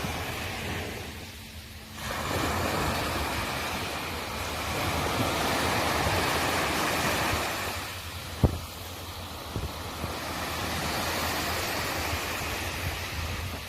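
Sea waves washing ashore in swells that rise and fall, the surge building about two seconds in and again around the middle. A single sharp click about two-thirds of the way through.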